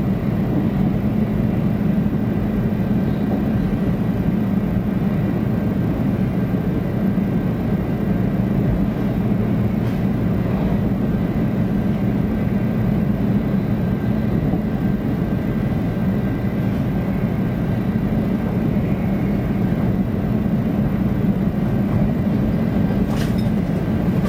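Steady low rumble of a 500 Series Shinkansen running at speed, heard from inside the passenger car, with a faint high steady tone over it.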